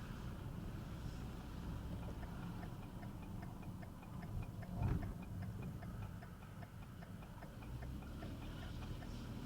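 Car turn signal ticking steadily over the low rumble of the car driving, with one thump about five seconds in.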